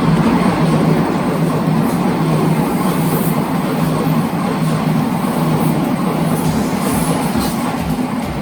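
Odakyu electric train running past, a loud steady noise of wheels on rail with a low hum.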